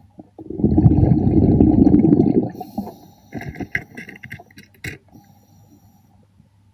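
Underwater: a diver's exhaled breath bubbling out in a loud burst for about two seconds, followed by scattered clicks and knocks, over a faint steady low hum.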